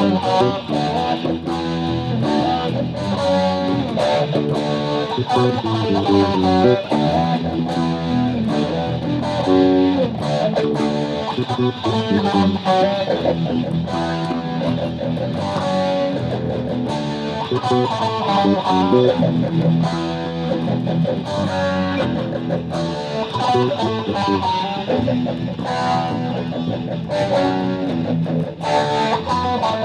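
High-school string orchestra playing a piece, with many quick, short notes that sound plucked.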